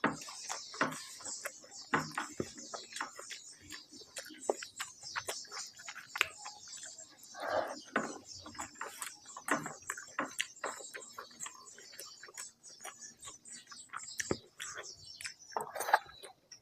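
Close-miked wet chewing and lip smacking of a mouthful of rice and curry: a rapid, irregular run of small mouth clicks and smacks over a steady hiss.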